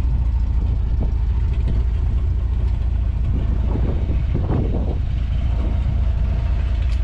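1990 Dodge Power Ram pickup's engine idling, a steady low exhaust rumble through a glass pack muffler.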